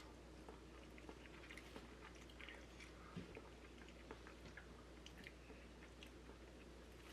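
Faint chewing of sticky rice and meat, with many small, scattered wet mouth clicks.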